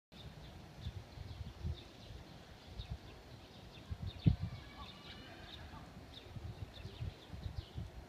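Small birds chirping, short high calls scattered through, with a brief whistled phrase about five seconds in. Underneath are irregular low bumps and rumbles, the loudest a single thump about four seconds in.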